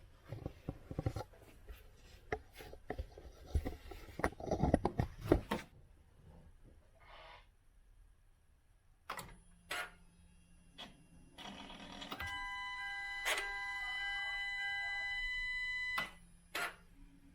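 A series of clicks and knocks, then a steady electronic warning chime from the car for about four seconds that stops abruptly, followed by another click.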